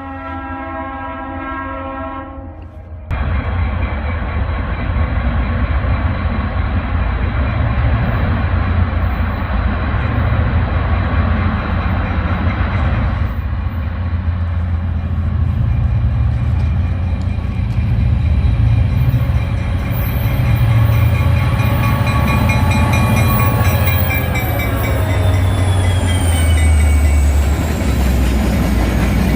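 Freight train horn sounding a steady chord for about three seconds and cutting off. The train then passes close by with a heavy low rumble and wheel noise on the rails. Near the end, high squealing tones slide down in pitch.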